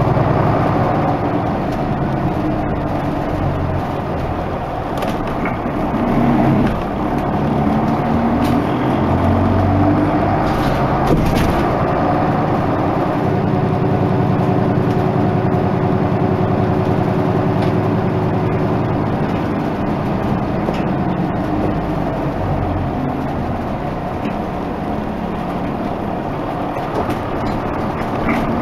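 Isuzu Erga Mio medium bus (KK-LR233J1) driving, its diesel engine running continuously with the pitch shifting up and down several times as it changes speed.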